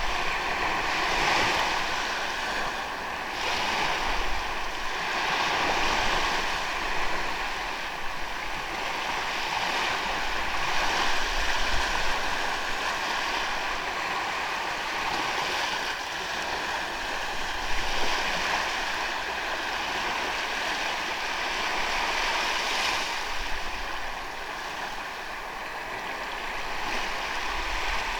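Ocean waves breaking and washing up a sandy beach, the surf swelling and easing every few seconds, with a low rumble of wind on the microphone. A faint steady high tone runs underneath.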